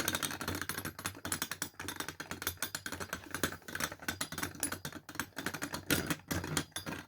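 3D-printed Beyblade tops spinning in a plastic stadium, rattling and clattering against each other and the stadium walls in a dense, rapid run of clicks.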